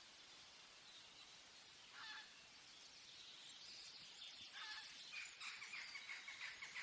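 Faint forest ambience with a bird calling: a short call about two seconds in, another a little after four seconds, then a fast run of repeated notes near the end.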